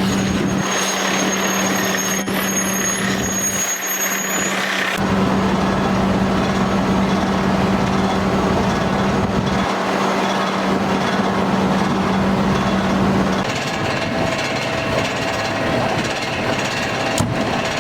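Fire truck's diesel engine running steadily at the scene, a constant low hum over a broad noisy wash.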